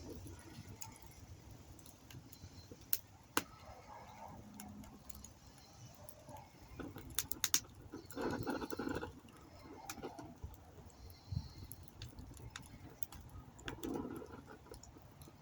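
Campfire crackling: scattered sharp pops, with a quick cluster of them about seven seconds in, over a low steady rumble. Two short, louder, lower-pitched sounds come about eight and fourteen seconds in.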